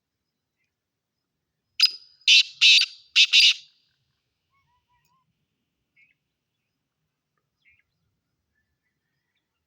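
Black francolin (black partridge) calling once: a short note and then three loud, harsh notes in quick succession, lasting about two seconds, starting about two seconds in.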